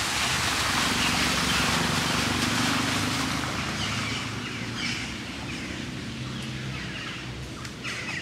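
A steady outdoor hiss on a wet street after heavy rain, loudest in the first few seconds and easing off, with small birds chirping faintly partway through.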